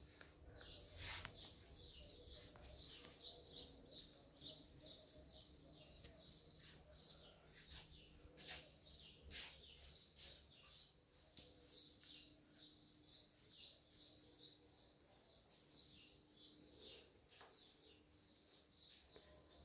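Small birds chirping faintly, a quick series of short high chirps several times a second, with a faint steady low hum underneath.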